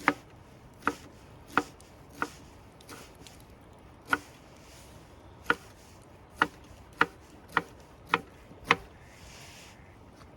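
Chopping on wood: about eleven sharp knocks at uneven intervals, typically half a second to two seconds apart.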